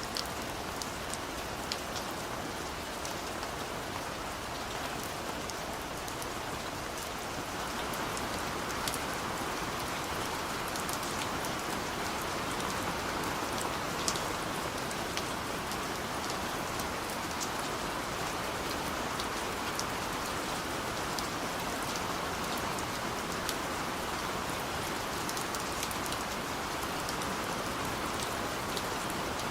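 Steady rain falling on a surface, a continuous hiss with scattered individual drop ticks, growing slightly fuller about a quarter of the way in.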